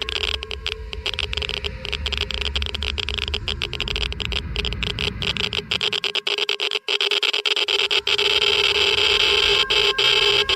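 Geiger counter clicking rapidly and irregularly as it counts radiation, over a steady hum. A low rumble underneath stops about six seconds in, and the clicking grows denser toward the end.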